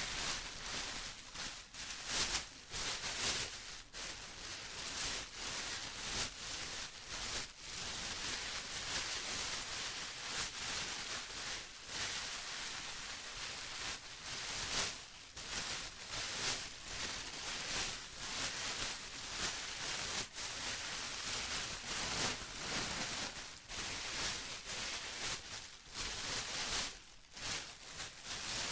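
Plastic being rustled and crinkled by hand, a steady stream of irregular crackles with no pauses.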